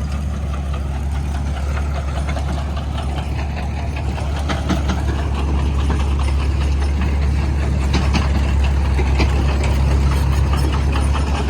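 Heavy engine running steadily with a rapid knock over its low hum, growing a little louder in the second half.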